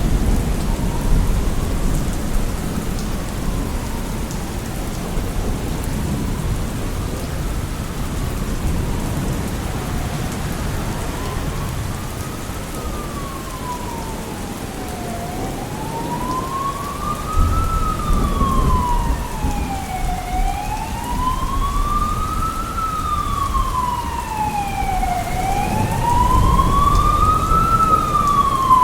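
Steady heavy rain, with low rumbles of thunder, as an emergency vehicle's wailing siren approaches. The siren sweeps slowly up and down, each rise and fall taking about five seconds, and grows from faint to loud, loudest near the end.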